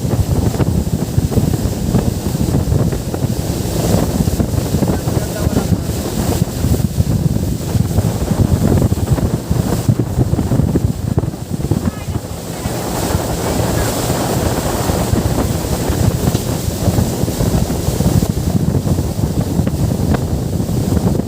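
Wind buffeting the microphone aboard a moving boat, over the rush of lake water against the hull.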